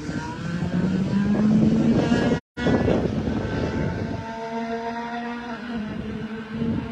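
IndyCar twin-turbo V6 running on track, its note rising over the first two seconds as the car accelerates, then holding a steadier pitch. The sound drops out completely for a split second about two and a half seconds in.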